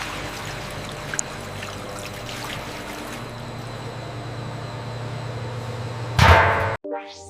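Steady rushing, water-like noise with a faint low hum and a single click about a second in. About six seconds in comes a loud whoosh, then a brief cut to silence and a rising sweep.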